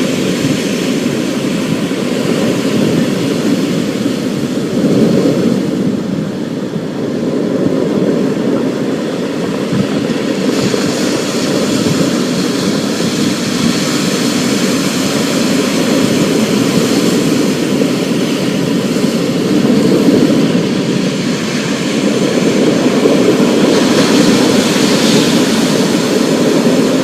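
Thunderstorm: a continuous low rumble of thunder that swells and fades every few seconds over a steady hiss of rain.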